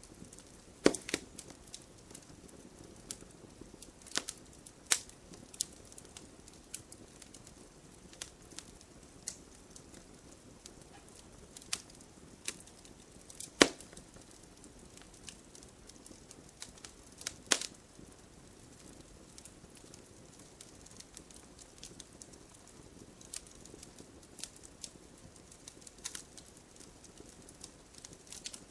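Wood fire crackling: irregular sharp pops and snaps over a soft steady hiss, with a few louder snaps about a second in, around five seconds in, and twice in the middle.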